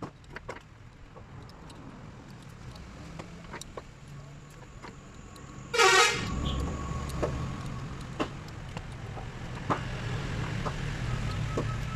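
A short car horn toot about halfway through, over a steady low vehicle engine rumble and scattered light clicks.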